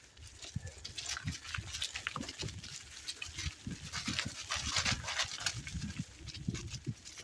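Bicycle ridden over a leaf-covered dirt path: tyres crunching through leaves and the frame rattling, a dense run of irregular clicks and low thumps.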